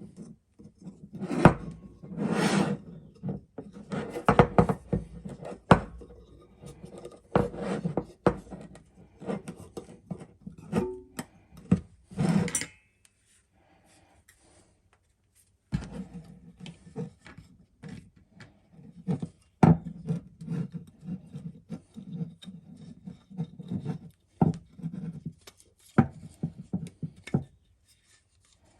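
Handling noises: irregular rubbing and scraping with sharp knocks, stopping for a couple of seconds about halfway through.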